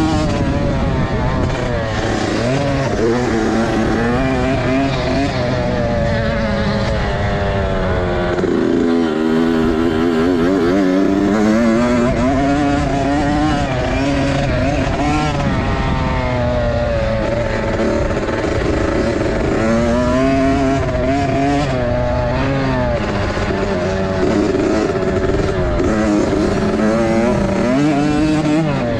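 Motocross dirt bike engines revving up and down as they ride the track, the engine pitch rising and falling again and again.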